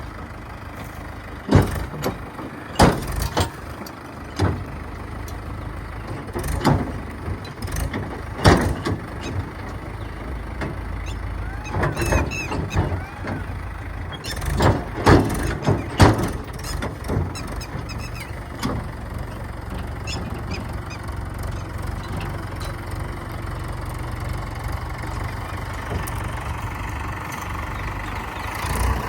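Heavy diesel machinery engine running with a steady low rumble, broken over the first half by a series of sharp metal clanks and knocks, then running on more steadily.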